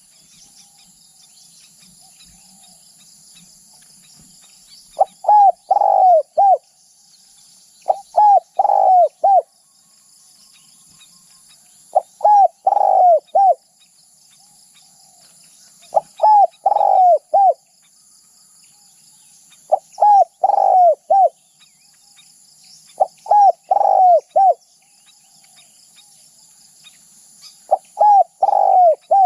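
Spotted dove cooing: short phrases of three or four coos, repeated about every four seconds. Under them runs a steady high insect drone.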